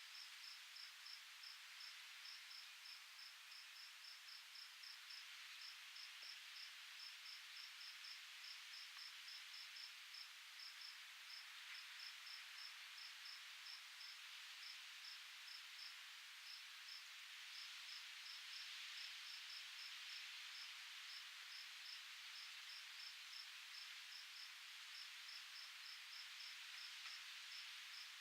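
A cricket chirping faintly in an even, steady run of short high chirps, about three a second, over a soft hiss of wind that swells a little midway.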